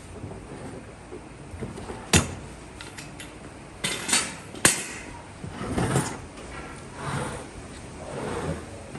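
Handling sounds: two sharp knocks and a few short scraping, clattering noises between them.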